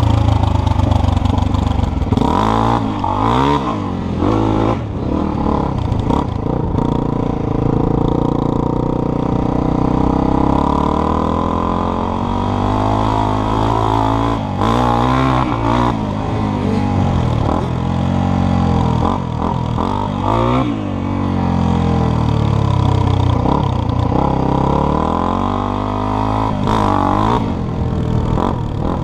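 Dirt bike engine being ridden, its pitch climbing and dropping back several times as the throttle is opened and closed.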